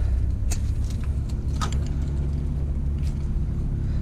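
A low steady rumble with a faint hum, with three light clinks of scrap metal being handled.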